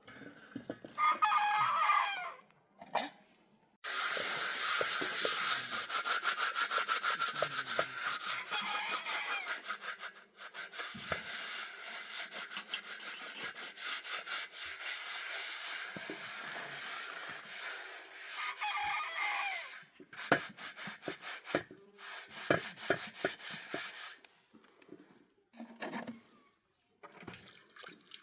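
A rooster crows about a second in and again about two-thirds of the way through. Between them, and loudest of all, a long run of fast, steady rubbing or scraping strokes starts about four seconds in and stops a few seconds before the end.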